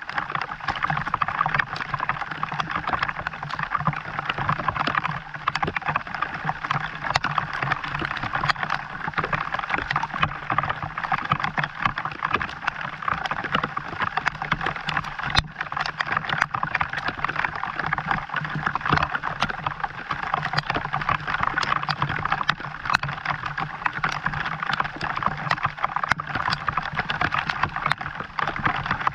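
Steady rain falling, an even hiss of water dotted with many small drop ticks.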